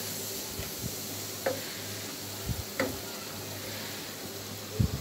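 Wet spice paste of onions, ginger-garlic, turmeric and chili powder sizzling in oil as it is fried down. A wooden spatula stirs it, scraping and knocking against the pan about half a dozen times, the loudest knock near the end.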